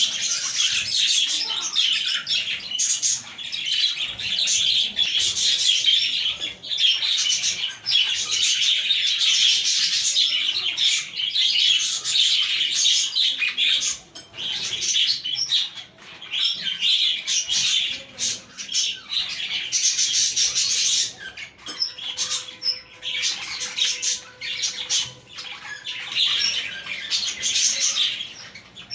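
A flock of budgerigars chattering and warbling together in continuous overlapping chirps and squawks, with a few short lulls.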